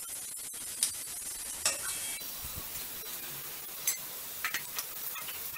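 Onions and green chillies sizzling in hot oil in a stainless steel frying pan as ground spice powder goes in, a steady hiss with a few light clicks.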